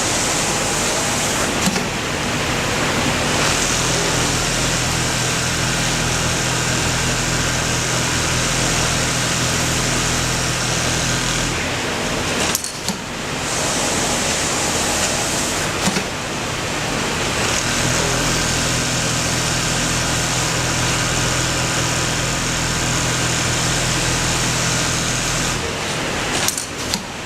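Automatic pattern sewing machine running through repeated quilting cycles: a steady machine hiss with a hum that sets in for stretches of about eight seconds, breaking off briefly twice.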